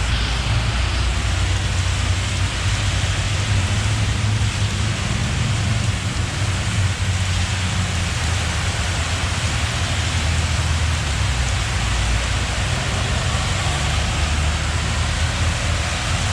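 Steady rain hiss with a low rumble underneath that does not let up.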